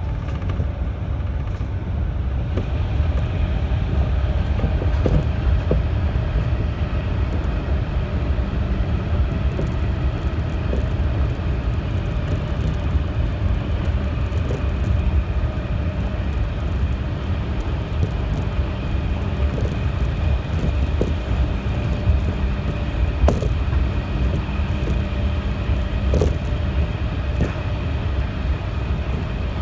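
Inside the cabin of a JR 211 series electric train running through a tunnel: a steady low rumble with a faint steady hum above it, and a few sharp clicks in the second half.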